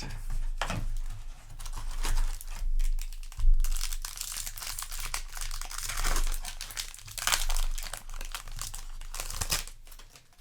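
Foil wrapper of a trading-card booster pack crinkling and tearing as it is handled and opened, in uneven bursts of crackling.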